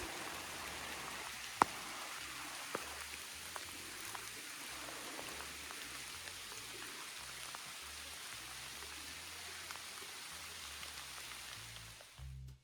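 Steady rain falling through forest, a continuous hiss with a few sharp close drop hits, one much louder about a second and a half in; it breaks off near the end.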